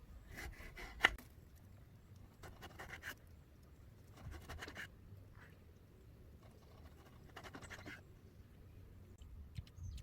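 Faint scratching handling noises in four short bouts, with one sharp click about a second in.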